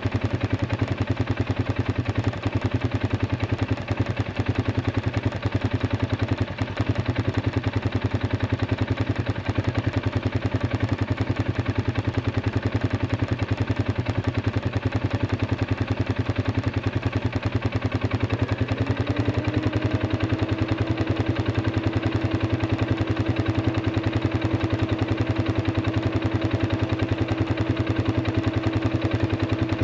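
Arctic Cat 500 ATV engine idling steadily. About 19 seconds in, the idle rises slightly and holds at the higher speed.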